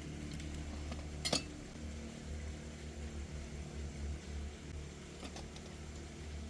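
A single sharp clink of kitchenware about a second in, with a few fainter clicks near the end, over a steady low rumble.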